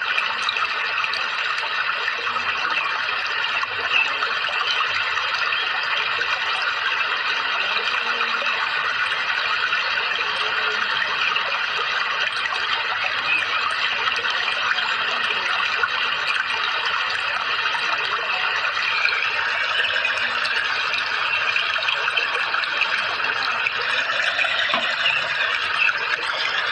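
Water running and trickling in a steady, unbroken stream.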